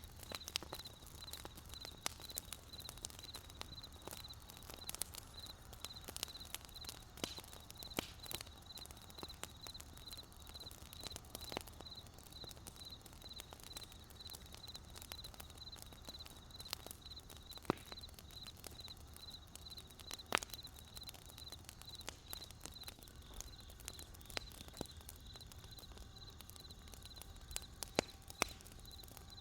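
Wood campfire crackling, with irregular sharp pops and snaps and a soft low rumble. A cricket chirps steadily and high, in quick even pulses, through it.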